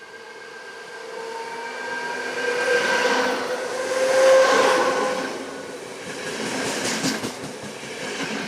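A train passing by, growing louder to a peak about four seconds in and then fading. A steady whine runs under it, and a quick run of wheel clicks over the rail joints comes about seven seconds in.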